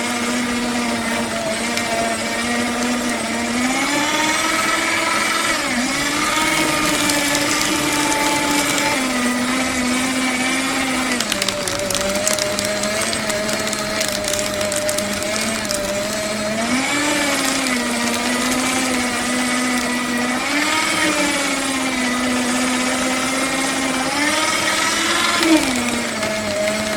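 Electric paper shredder running, its motor hum rising in pitch and dropping back several times over the stretch, with a steady rasping noise of the cutters.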